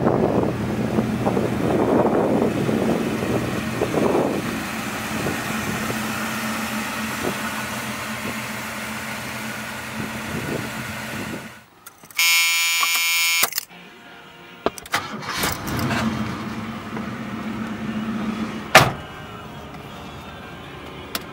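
1979 Pontiac Trans Am's V8 idling at the rear exhaust, with a couple of light throttle blips in the first few seconds and then running steadily. Partway through it cuts off and a loud warning buzzer sounds for about a second and a half. Quieter cabin sounds with one sharp click follow.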